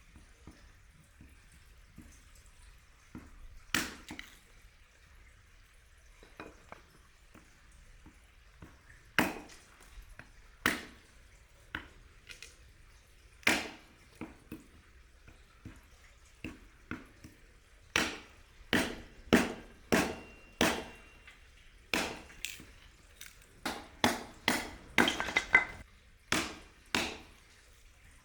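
A series of sharp knocks at irregular intervals, sparse at first and then coming about once a second or faster in the second half, each with a short ringing tail.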